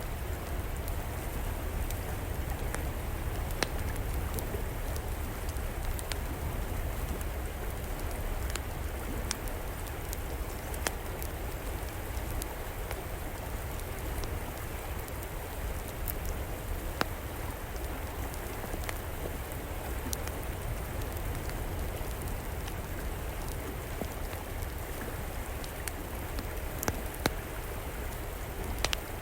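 River water flowing steadily under the crackle of a wood fire, with sharp pops scattered every second or so and a few louder ones near the end.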